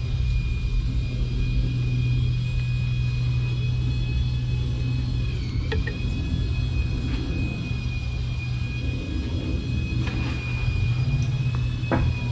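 A steady mechanical rumble with a thin, constant high whine over it, dipping briefly in pitch about halfway through.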